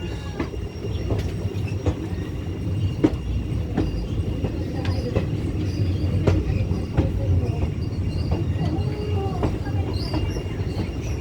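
Passenger train running on the rails: a steady low rumble with irregular sharp clacks of the wheels over rail joints, and a faint high steady whine.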